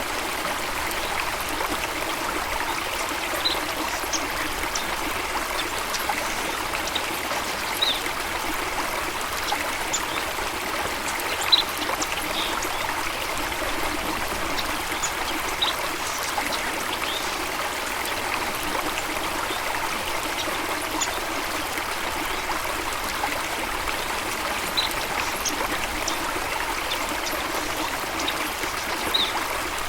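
Running stream, a steady rushing and trickling of water, with brief high-pitched notes scattered every few seconds, one sharper near the middle.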